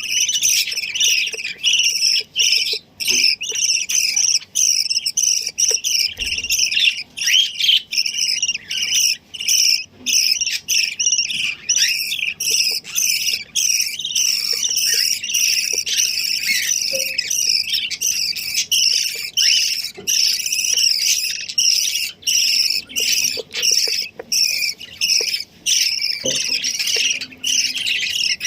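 Many small birds chirping rapidly and without pause, their high calls overlapping into a dense chatter.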